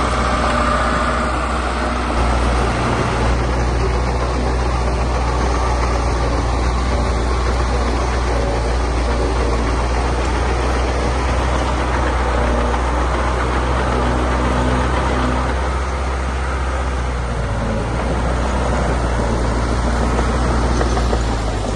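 Heavy earthmoving machine's diesel engine running steadily, its low note shifting slightly now and then as the load changes.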